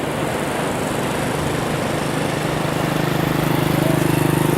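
A small engine running with a steady, pulsing hum that grows louder from about halfway through, over a constant wash of surf and wind.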